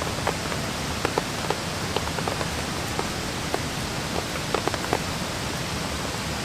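Steady rain, with scattered individual drops ticking at irregular intervals on a surface close by.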